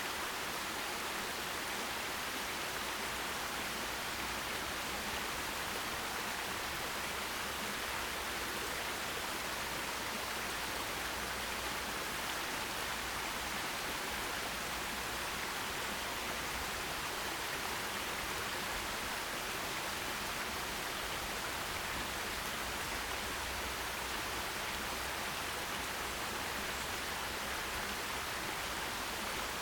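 Forest stream flowing: a steady, even rush of running water with no breaks or changes.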